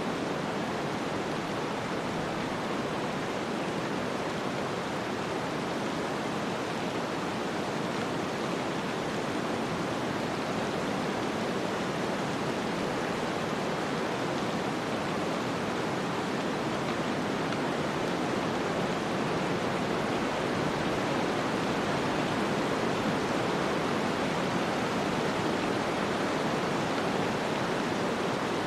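Snowstorm ambience: a steady, even rushing noise with no gusts, crackles or other separate sounds.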